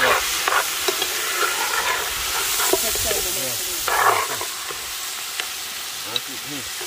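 Food sizzling and frying in a pot over an open fire, with a utensil stirring and scraping against the pot. The loudest stirring comes at the start and again about four seconds in, over a steady frying hiss.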